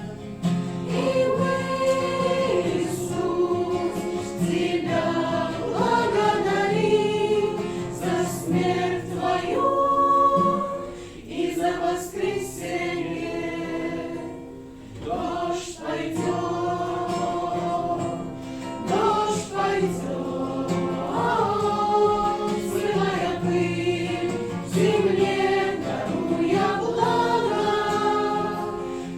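A choir singing a Christian worship song, the song's sung phrases running on with a short lull about halfway through.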